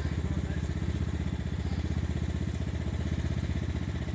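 Tractor engine running steadily, with an even, rapid pulse.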